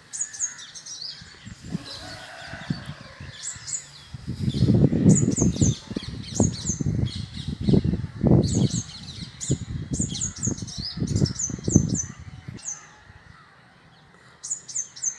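Small birds chirping: a steady run of high, quick down-slurred chirps repeated over and over, pausing briefly near the end. From about four to twelve seconds in, louder low rumbling bursts come and go underneath the chirps.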